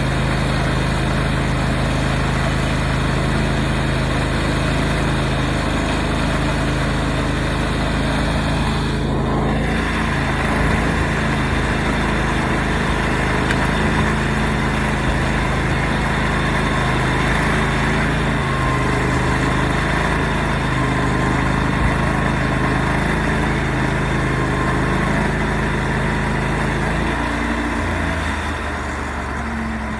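Portable sawmill engine running steadily. Its note drops and it gets a little quieter near the end.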